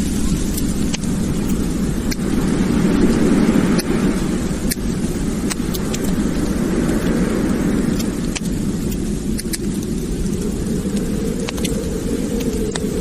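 Wood fire in a fireplace burning with a steady low roar of flames and irregular sharp crackles and pops.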